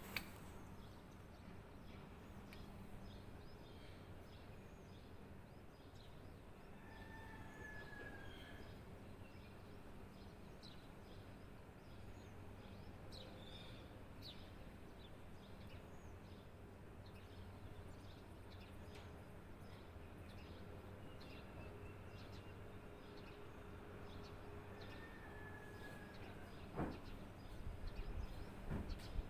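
Faint birdsong: scattered short chirps and a couple of brief falling calls over a steady low hum, with a few sharp clicks near the end.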